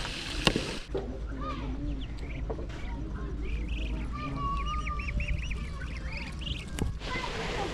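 Birds calling: many short, quick chirps in rapid runs, with a few longer gliding calls, over a steady low hum.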